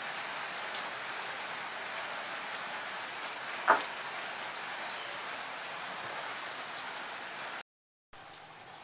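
Steady rain falling, with a few faint drop ticks. About four seconds in comes one brief, sharp pitched call or squeak, the loudest thing heard. The sound cuts out for a split second near the end.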